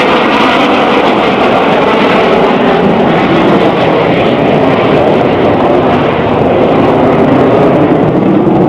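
Loud, steady jet engine noise from BAE Hawk T1 jets flying low over the crowd at an air display.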